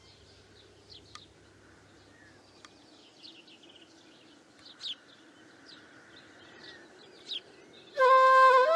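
Birds chirping, a scattered series of short high chirps over a faint background hum. Music comes in loudly near the end.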